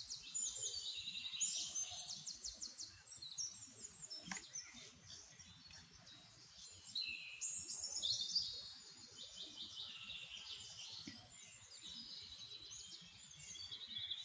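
Birds chirping and trilling in high, rapid notes, several calls overlapping.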